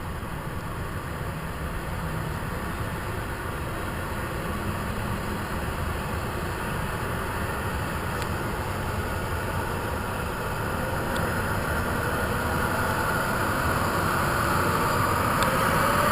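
Medical helicopter running: steady turbine and rotor noise that grows slowly louder, with a whine that rises in pitch near the end.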